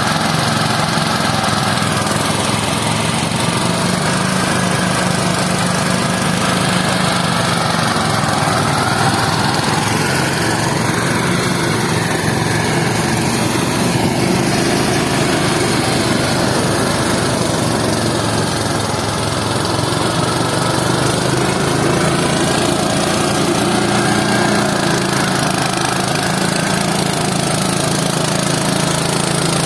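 A small engine running steadily under load, its pitch shifting slightly now and then.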